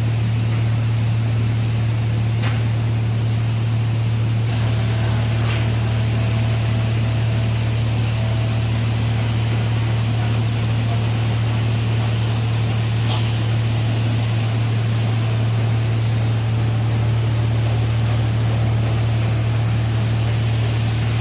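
Steady low machinery hum that does not change, with a few faint clicks over it.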